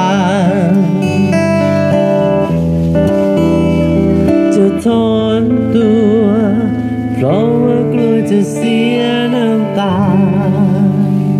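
Acoustic guitar playing under a singer's long held notes with wide vibrato, in the closing passage of a song.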